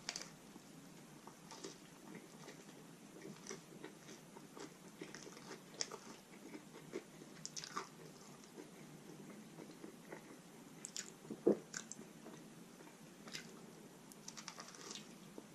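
Close-miked chewing and biting into a taco, its crisp shell crunching and crackling in short irregular bursts. The loudest crunch comes about eleven and a half seconds in.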